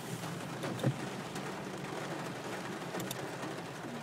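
Rain and a car's running noise heard from inside the cabin during a thunderstorm, steady, with one short knock about a second in.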